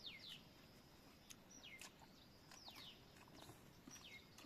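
Faint bird calls: a high whistled note sliding steeply down, repeated about once a second, often two in quick succession, with a few faint clicks.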